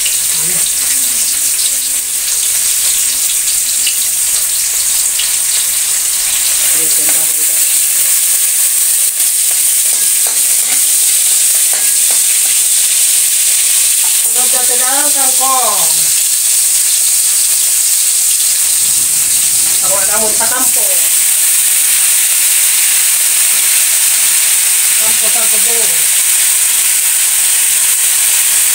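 Garlic and aromatics sizzling in hot oil in a wok over a gas flame, later with kangkong (water spinach) frying in it: a steady hiss that gets louder about seven seconds in. Three brief wavering vocal sounds come over it in the second half.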